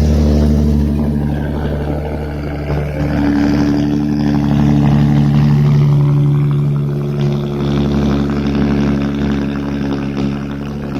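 Lexus IS250's 2.5-litre V6 idling through an aftermarket exhaust with an X-pipe and HKS mufflers, a steady low exhaust note that swells slightly between about three and six seconds in.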